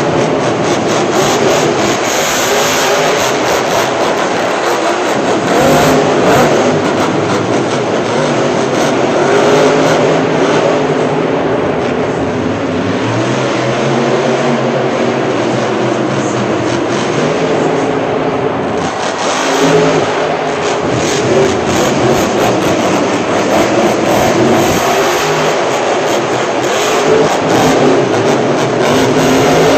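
Monster truck engines revving loudly, the pitch rising and falling again and again.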